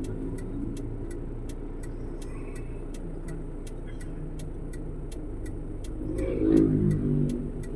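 Steady low rumble of a vehicle in traffic, with a faint, even ticking about three times a second and a louder swell about six and a half seconds in.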